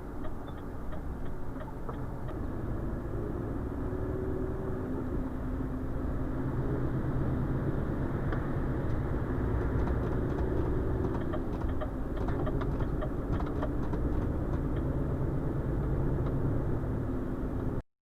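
Renault Trucks T520 diesel engine running steadily while the truck drives, with road rumble, heard inside the cab. The sound cuts off abruptly near the end.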